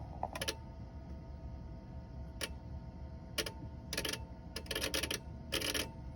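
Irregular electrical clicking from a Renault truck with a recurring electrical fault: single clicks and short rapid runs of clicks over a faint steady tone.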